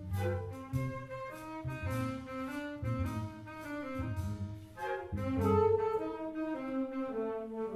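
A wind band of woodwinds, saxophones and brass playing, with low bass notes on a steady beat under a sustained melody.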